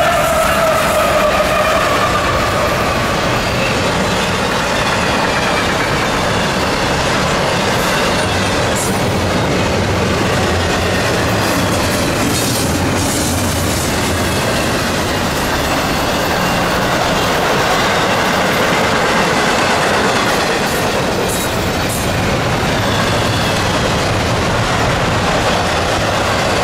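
A CSX intermodal freight train rolling past in a steady, loud rush of wheel and rail noise, with wheels clattering over rail joints. The locomotive horn's last note fades out in the first couple of seconds.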